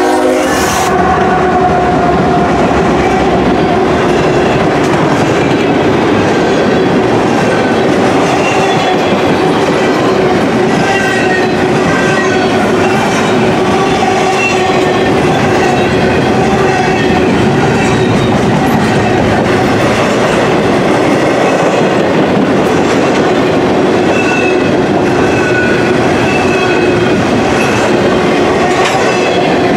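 Norfolk Southern intermodal container train rolling past at close range: a steady, loud rumble and clickety-clack of loaded container well cars on the rails, with faint high wheel squeals now and then. The two GE ES44AC diesel locomotives at its head go by at the start.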